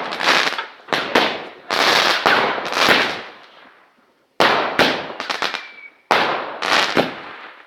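Fireworks going off: a rapid string of sharp bangs, each trailing off quickly, with a short lull about four seconds in before the bangs resume.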